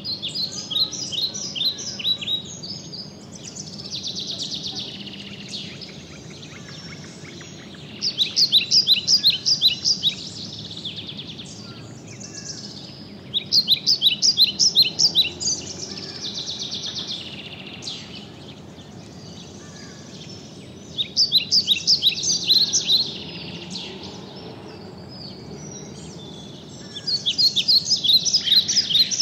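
Birds singing over a steady background of outdoor ambience. The song comes in about five bouts of rapid, repeated high chirps, with softer calls between them.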